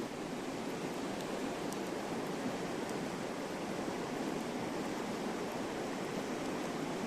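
Steady rushing of a river flowing close by, with a few faint crackles from a campfire.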